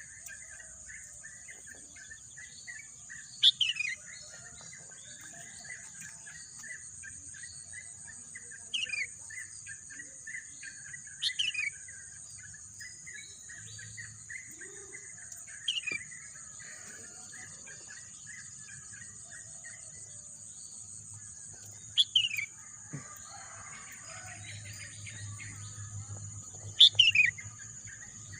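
Birds singing: one bird gives a loud, short call sweeping downward in pitch, repeated every four to six seconds, over a constant run of quicker chirps. A steady high-pitched insect drone runs underneath.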